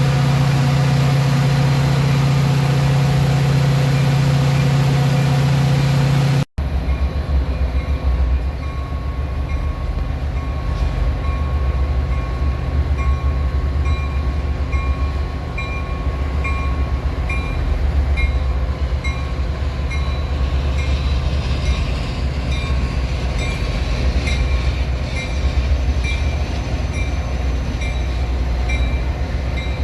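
A diesel train engine idling with a strong, steady low hum. After a cut, a train rumbles heavily past, with regular high clicks coming a little under once a second.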